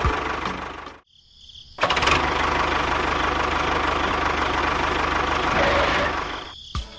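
An engine running steadily with a low rumble. It cuts out about a second in, starts again almost a second later, runs on evenly, then dies away near the end.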